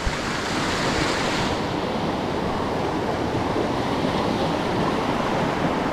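Stream water rushing steadily, a continuous hiss. Its bright upper edge drops off about a second and a half in.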